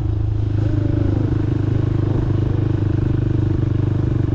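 Honda Monkey's small single-cylinder four-stroke engine running steadily while the bike is ridden at an even speed.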